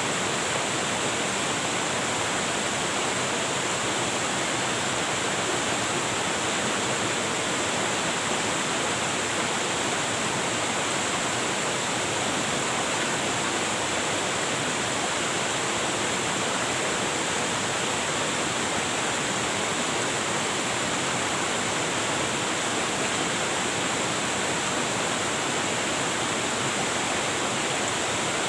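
Waterfall: falling water splashing into a pool as a steady, unbroken rush.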